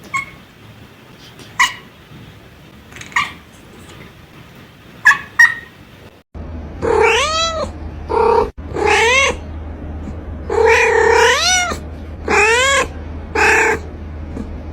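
Domestic cats meowing: first a few short, high-pitched mews spaced a second or more apart, then, after a sudden change of recording about six seconds in, a run of about seven longer meows that rise and fall in pitch over a steady low hum.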